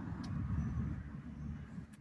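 Domestic cat purring: a low, rapidly pulsing rumble that fades in the second half.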